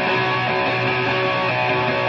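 Electric guitar, a Donner DST-100 S-type, played through an amplifier, with chords strummed and left to ring.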